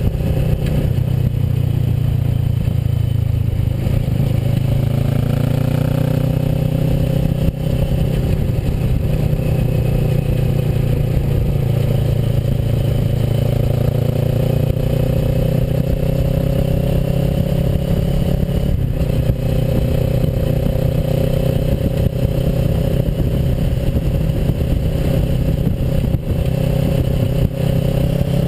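Kawasaki Versys motorcycle engine running steadily under way, its pitch rising and falling gently with the throttle, over scraping, clattering road noise.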